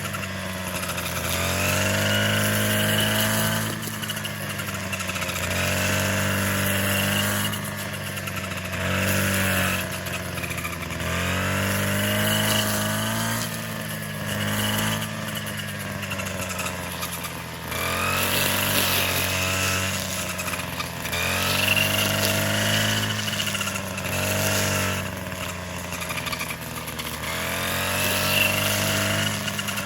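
A small engine running loudly, its pitch rising and falling in repeated swells every two to three seconds as it is throttled up and eased off under load.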